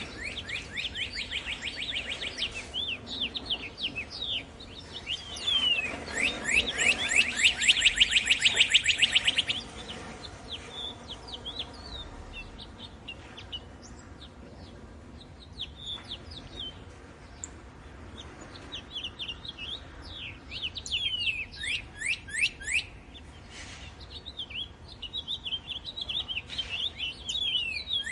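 Northern cardinal singing: bursts of rapid, down-slurred whistled notes, the loudest and fastest run about six to nine seconds in, with scattered chirps between the phrases.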